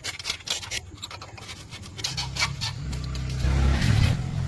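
Rapid scratching and clicking, then a low rumble that swells in the second half.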